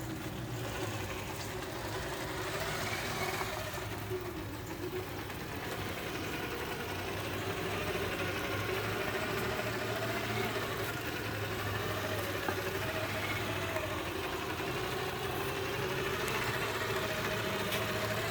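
Traxxas TRX-4 RC crawler's electric motor and drivetrain whining steadily while driving, the pitch wavering slightly as the throttle changes and getting a little louder partway through.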